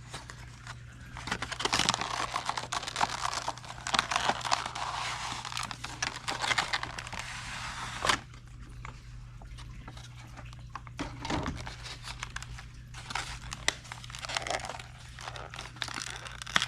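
A model locomotive's box packaging being opened and handled: crinkling and tearing with many small clicks and rustles. A steady low hum from a fish tank runs underneath.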